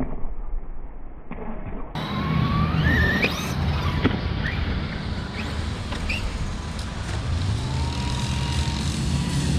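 Electric RC car motor whining in several short rising revs as the car accelerates, over a steady low rumble.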